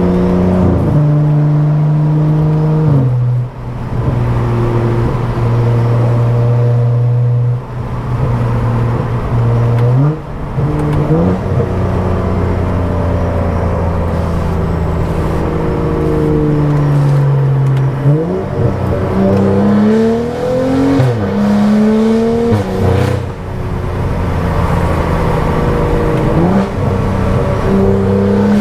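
Stage 2+ tuned BMW F10 535i's turbocharged 3.0-litre inline-six and loud aftermarket exhaust while driving: long steady stretches of engine note broken by sudden drops and rises in pitch as gears change and the throttle opens and closes, with a run of quick revs rising and falling about two-thirds of the way through.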